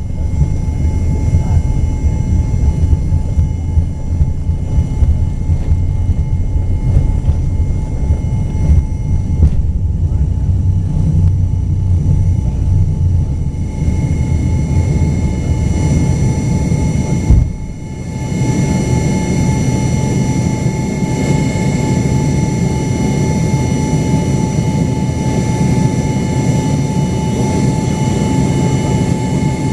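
Cabin noise inside an Embraer ERJ-135: a steady low rumble with the high whine of its Rolls-Royce AE 3007 turbofan engines. About seventeen seconds in the sound dips briefly, then the whine tones return stronger.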